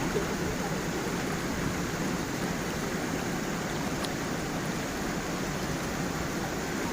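Stream and small waterfall, water rushing steadily.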